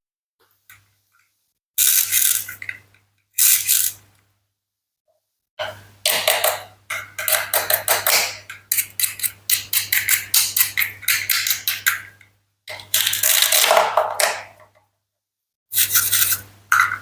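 Toy knife cutting through plastic and wooden toy fruit: short bursts of scraping with rapid clicking, the longest run lasting several seconds in the middle.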